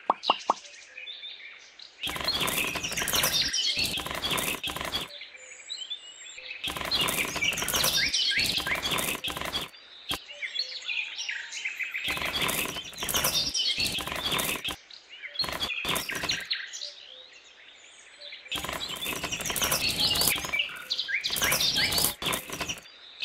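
Small coloured decorative pebbles dropped by hand, rattling and clattering onto sand and each other in several bursts of a few seconds each, with birds chirping throughout.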